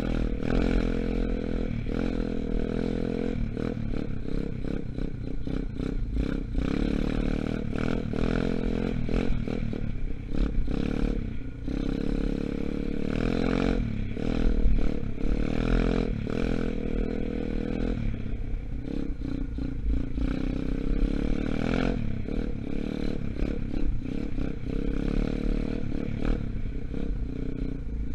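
A 125cc Gunshot dirt bike engine running under riding load, its pitch rising and falling as the throttle is opened and closed, with frequent knocks and rattles from the bike over rough ground. The engine is still being run in.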